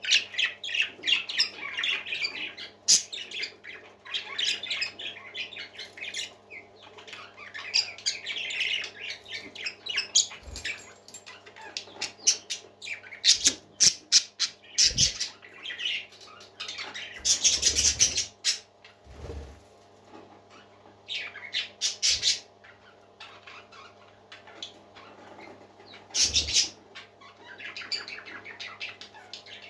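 Parakeets chattering and warbling in a steady stream of chirps, with a few louder squawking bursts and short low knocks.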